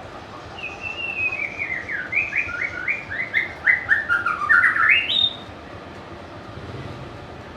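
White-rumped shama singing one phrase of quick whistled notes that step downward in pitch and end in a sharp rising upsweep, about four and a half seconds long.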